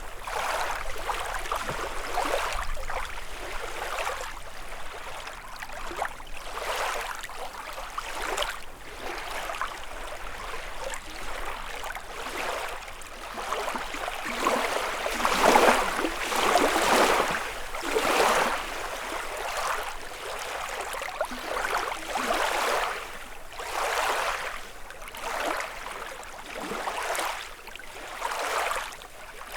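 Small lake waves washing and lapping against the shore in repeated swells, one every second or two, loudest near the middle.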